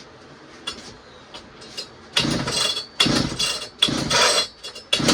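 Pioneer P-41 66cc two-stroke chainsaw being pull-started on fuel primed into the cylinder. There are a few light clicks, then several hard pulls on the recoil starter spin the engine over. Near the end the engine fires and keeps running.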